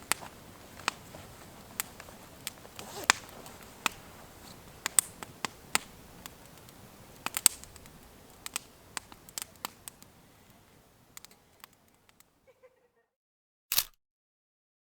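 Wood campfire crackling, with irregular sharp pops over a soft hiss, fading out about twelve seconds in. A single short burst of noise comes near the end.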